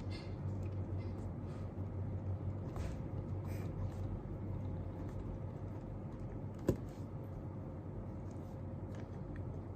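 Desk sounds of someone studying over a steady low room hum: scattered light taps and rustles, with one sharp click about two-thirds of the way through.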